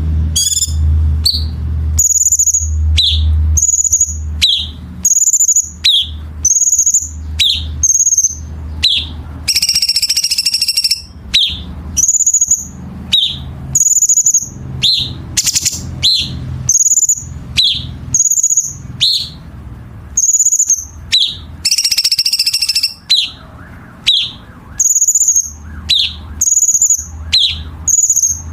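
Blue-winged leafbird (cucak cungkok) singing: a short, sharp phrase of a high note and a quick falling note, repeated about once a second. Twice it breaks into a harsh, rasping burst of about a second, the rough 'kasaran' notes prized in contest-bird tutoring.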